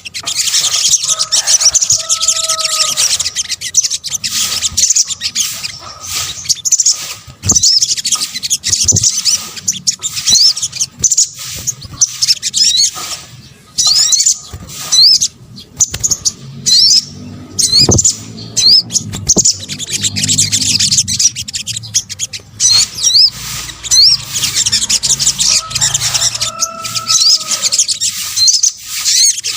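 Sogok ontong, a bird of the sunbird family, calling in a dense stream of rapid high-pitched chirps and twitters. A lower, longer two-note whistle comes in about a second in and again near the end.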